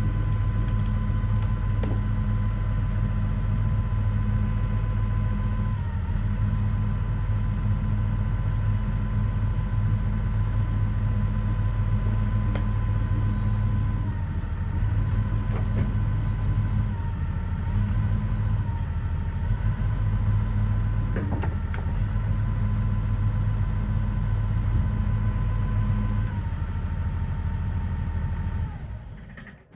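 Excavator's diesel engine running steadily, its pitch dipping briefly several times under load, then stopping near the end.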